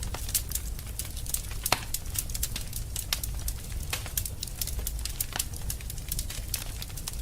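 Wood fire in a fireplace crackling: frequent irregular sharp pops and snaps over a low steady rumble of the flames.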